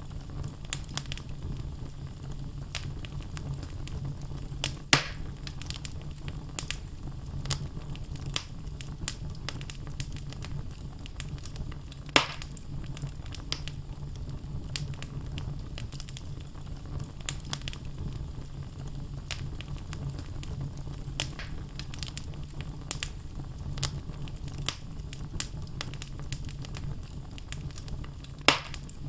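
Wood logs burning in a fireplace: a steady low rumble of the fire with frequent small crackles, and three louder pops spread through.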